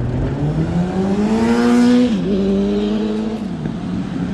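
A passing vehicle's motor accelerating: its pitch climbs steadily for about two seconds, drops suddenly, holds, then falls away near the end, over a steady rush of wind and road noise.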